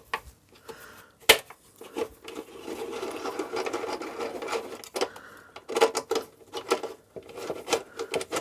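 A tool undoing a fastener. A rapid, rattling whirr runs from about two to five seconds in, then come scattered sharp clicks and knocks of metal parts.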